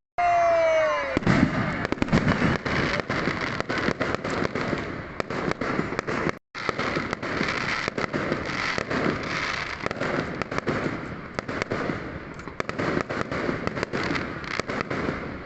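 Fireworks going off in a dense, rapid barrage of bangs and crackles. It opens with a falling whistle and cuts out for a moment near the middle.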